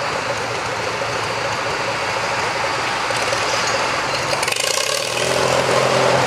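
Farm tractor engine running, with a steady idle note coming up clearly and slightly louder about five seconds in.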